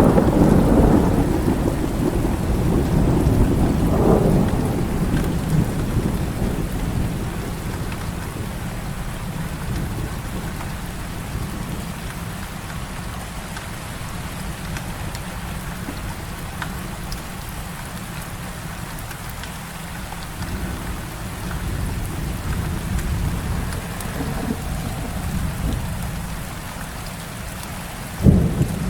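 Heavy rain falling steadily, with thunder rumbling loudly at the start and dying away over several seconds. A sudden sharp thunderclap comes near the end.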